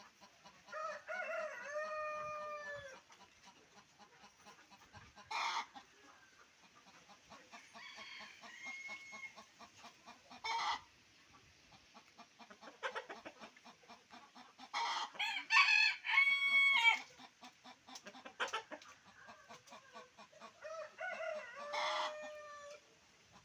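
Roosters crowing three times, near the start, in the middle (loudest) and near the end, with short sharp clucks and calls from a poultry flock at feeding in between.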